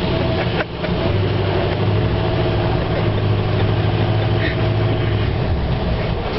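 A car engine and tyre noise from a vehicle driving slowly, heard from inside the cabin: a steady low hum with a brief dip just under a second in.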